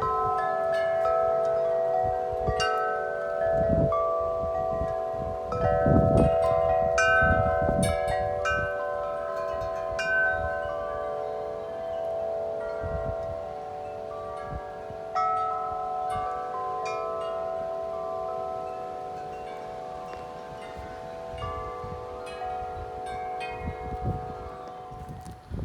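Wind chimes struck over and over by strong gusts, their low tones overlapping and ringing on without a break. Gusts of wind rumble on the microphone, hardest about six seconds in, and the chiming eases off toward the end.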